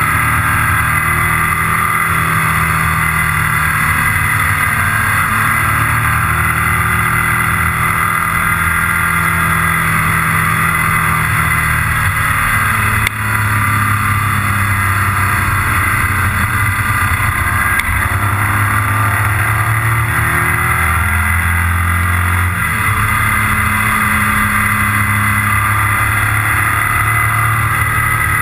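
Motorcycle engine running at road speed, heard with heavy wind rush on the microphone. The engine note shifts up and down a few times, with a brief drop in loudness about halfway through.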